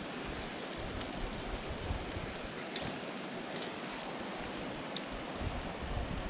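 Wood campfire crackling, with a few sharp pops, over a steady rushing noise.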